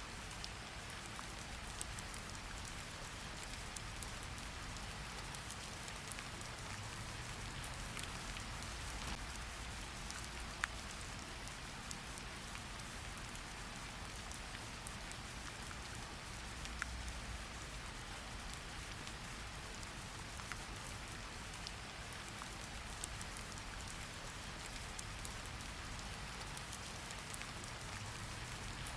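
Steady rain falling, an even hiss with scattered individual drops ticking and a low rumble underneath.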